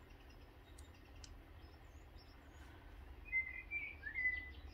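A few short, high chirps of a bird a little past the middle, one sliding down in pitch, over a faint low hum.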